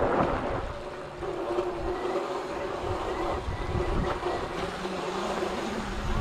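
Electric dirt bike on a trail: a steady motor whine under rumbling wind noise on the microphone, which eases about a second in and builds again.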